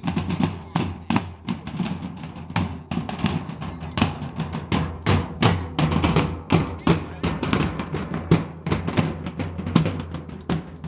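A drum group playing a fast, driving rhythm: dense drum strikes several per second, with a steady low tone underneath.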